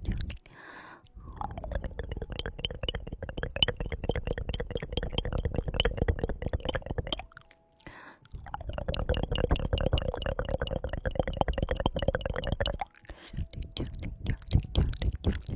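Close-miked ASMR tongue clicking: rapid runs of mouth clicks, two long unbroken stretches of several seconds each with a short pause between, and sparser single clicks at the start and near the end.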